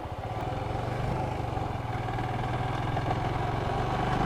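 Motorcycle engine running steadily while the bike is under way.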